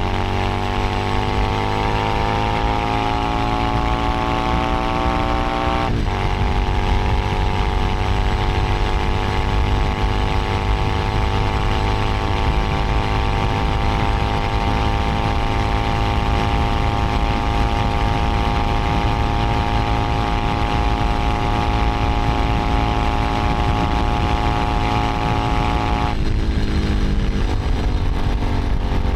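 Keeway SCR 250V V-twin motorcycle engine and exhaust under way. The pitch climbs as the bike pulls, drops sharply with a gear change about six seconds in, then climbs slowly through a long steady pull. Near the end the revs fall away as the throttle is rolled off.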